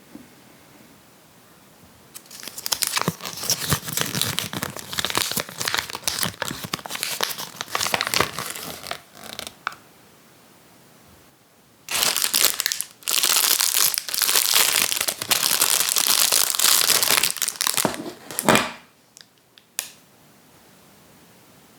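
Thin plastic packaging of a capsule toy crinkling and tearing as it is unwrapped by hand, in two long spells with a quiet pause of about two seconds between them and a few short rustles near the end.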